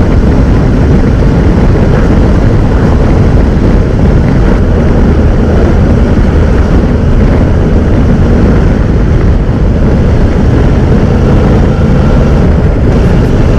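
Honda NC750X motorcycle cruising steadily: wind rushing over the microphone mixed with the low, even hum of its parallel-twin engine, with no change in speed.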